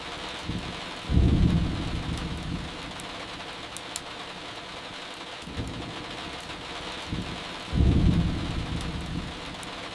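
Steady rain hiss with two rolls of distant thunder, one about a second in and another late on, each a low rumble that swells and fades over a second or two. Faint crackles of burning firewood tick over the rain.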